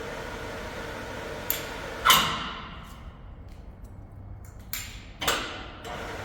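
Four sharp clanks. The loudest comes about two seconds in and rings briefly as it dies away, and all four sit over a steady hum.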